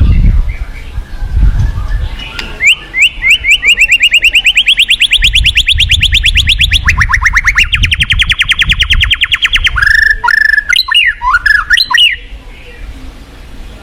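White-rumped shama singing: a long, fast run of rapidly repeated notes lasting about seven seconds, then several loud sweeping whistles, stopping about twelve seconds in. Rushing river water runs underneath.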